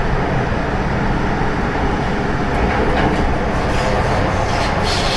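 MTR Tsuen Wan Line M-Train electric multiple unit running, heard from on board: a steady, loud rumble of wheels and running gear on the track, with a few brief high hisses in the second half.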